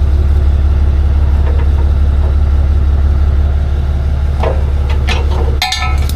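Truck engine running with a steady low drone, and a brief high-pitched squeak near the end.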